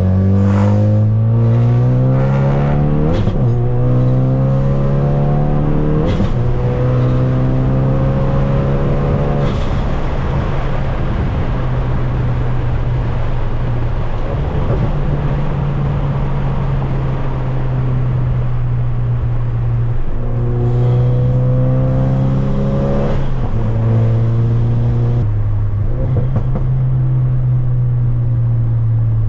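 Tuned 450 hp Ford Focus RS engine and exhaust pulling hard through the gears, the engine note climbing and then dropping at each upshift a few seconds in and again near the end, with short sharp pops at the shifts. In between, it holds a steady note while cruising.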